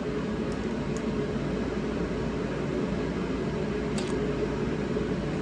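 Steady background hum, like a running fan, with a few faint light clicks.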